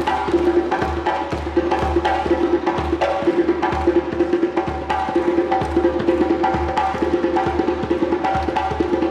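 Live percussion music of African drumming: drums struck in a dense, continuous rhythm over a steady low beat, with bright wooden clicks and a sustained pitched tone running through.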